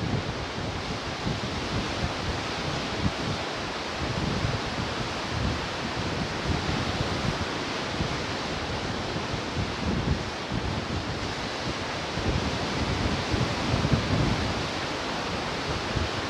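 Ocean surf washing steadily onto the shore, with wind buffeting the microphone in irregular low gusts.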